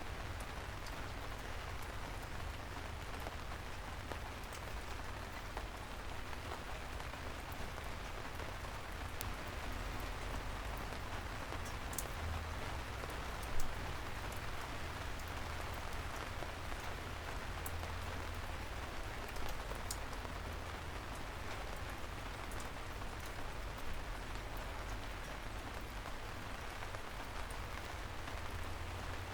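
Steady gentle rain falling on a city street, a constant patter with scattered individual drops ticking, a few of them louder.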